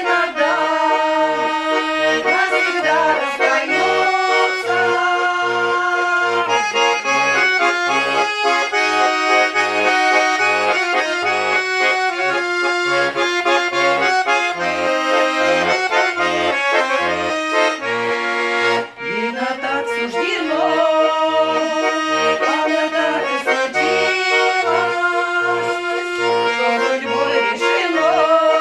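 Accordion playing a folk-style tune, the melody over a steady alternating bass-and-chord accompaniment, with a brief break about two-thirds of the way through before the tune resumes.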